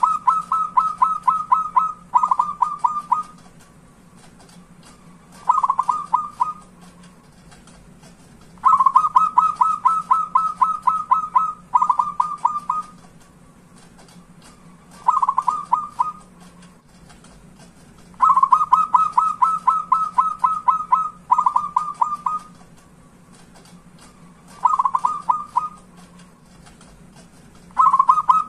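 Zebra dove (perkutut) cooing its song: a fast rippling run of coos, then a short group, then after a pause another short group. The phrase repeats about every nine to ten seconds, three times, over a faint steady low hum.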